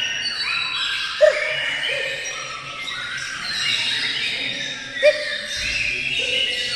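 Several songbirds singing at once in dense, overlapping chirps and trills, with a short, lower, louder call breaking in three times.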